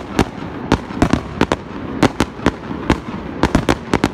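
Fireworks display: a rapid, irregular series of sharp bangs, about three or four a second, over a continuous rumble of bursts.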